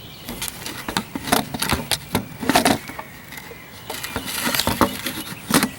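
Irregular clicks and light knocks of things being handled, a few each second, with no engine running.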